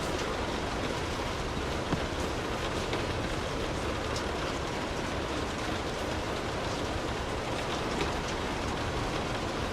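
Steady rain falling, with scattered single drops ticking now and then over a continuous low rumble.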